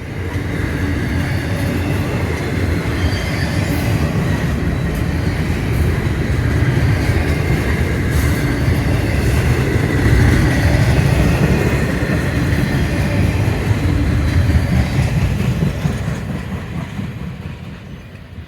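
Freight train rolling past on the rails, a steady rumble of wheels and cars that fades away near the end.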